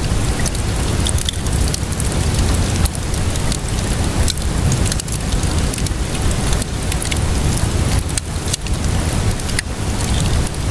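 Steady rainfall mixed with a crackling fire: a continuous hiss with a heavy low rumble, broken by frequent short, sharp pops and crackles.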